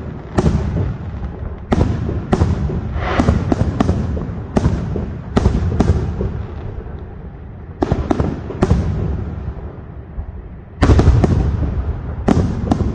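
Aerial firework shells bursting, sharp bangs every second or so, each trailing off in a low rumble. A short lull comes near the end, then a louder cluster of bursts.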